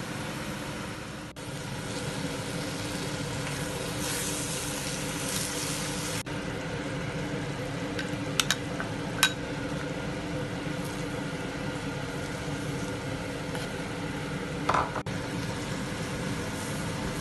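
Chicken and onions sizzling in coconut oil in a clay pot while a spatula stirs them, over a steady background hum. There are a few sharp taps of the spatula against the pot about halfway through and a duller knock near the end.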